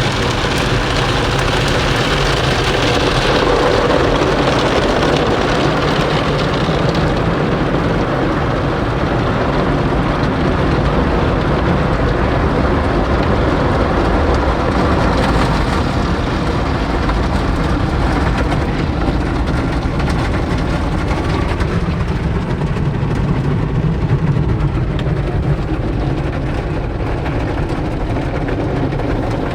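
Automatic tunnel car wash equipment running: a loud, steady rushing noise.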